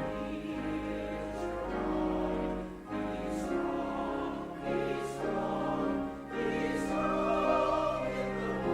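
Church choir singing, with held notes and short breaks between phrases about three and six seconds in.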